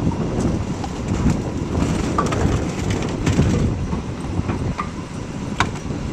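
Wind rumbling on the microphone outdoors, uneven and gusty, with scattered light clicks and knocks.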